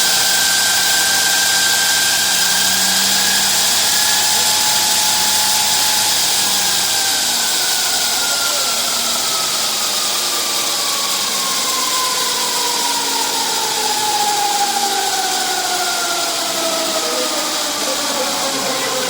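Komatti-Mirai Racing electric race motorcycle's motor whining, held at a steady pitch for about six seconds, then falling slowly in pitch as it winds down.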